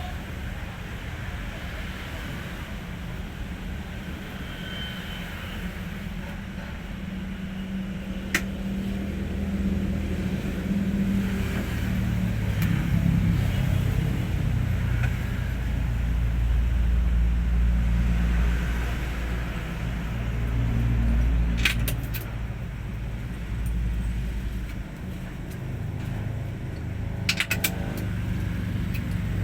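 Hino 500 truck's diesel engine running, its low hum rising and falling in pitch and getting louder in the middle as the load changes. A few sharp clicks or rattles come in near the end.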